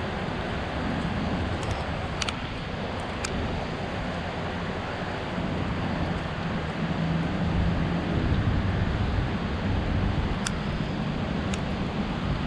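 City street ambience: a steady low rumble of traffic that swells for a few seconds about two thirds of the way through, with a few faint sharp clicks on top.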